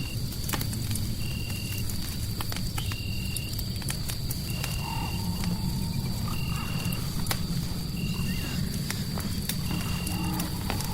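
Crackling fireplace: irregular sharp pops and snaps over a steady low rumble of burning. Over it, a short flat high call repeats evenly about every second and a half, with a faint steady high tone behind.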